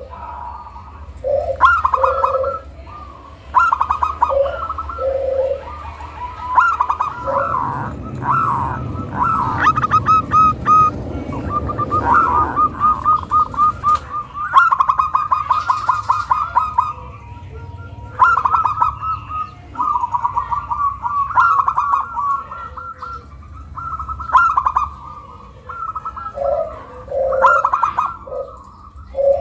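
Zebra dove (perkutut) cooing over and over in phrases of rapid stuttering notes with lower coos. A low rushing noise sits under the song for several seconds in the middle.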